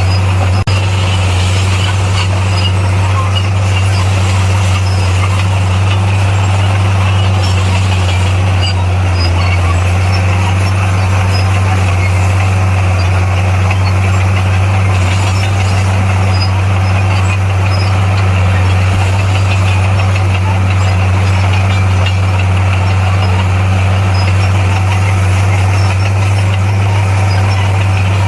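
Heavy diesel engine of a construction machine running at a steady, unchanging speed, a loud low drone.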